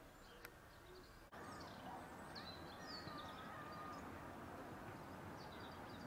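Faint outdoor ambience with small birds chirping: short high calls and quick sliding whistles, clustered about two to three seconds in and again near the end.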